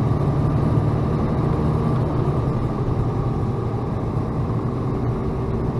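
Freightliner plow truck running steadily, a low engine drone heard from inside the cab.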